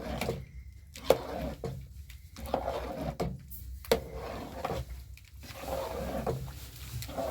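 Household handling noise: rustling and clatter with two sharp knocks, about a second in and about four seconds in.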